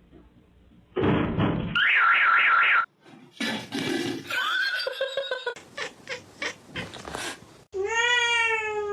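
A string of short domestic-cat sounds cut one after another: a brief rustle, a warbling trill, some clattering, then near the end a long, drawn-out cat meow.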